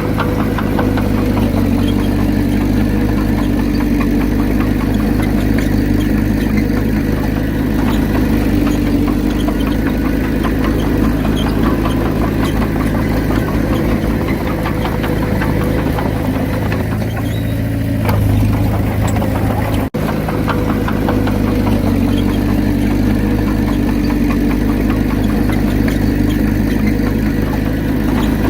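Diesel engine of a heavy earthmoving machine running steadily, with a brief change in its note about two-thirds of the way in and a momentary break just after.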